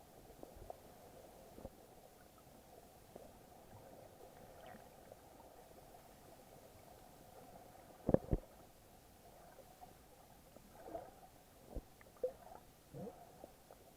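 Muffled underwater sound heard through an action camera's waterproof housing: a low, steady murmur, with a pair of knocks about eight seconds in and a few short gurgles near the end.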